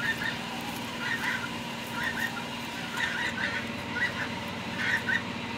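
Birds calling in short bursts, about once or twice a second, over a steady low hum.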